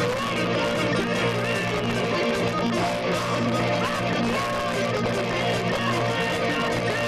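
Live band playing music, led by guitar.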